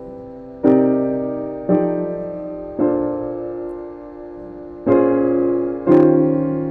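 Piano playing jazz ninth and thirteenth chord voicings (minor 9, dominant 13 and major 9 chords moving through ii–V–I progressions). Five chords are struck one at a time, each held and fading, with a pause of about two seconds after the third.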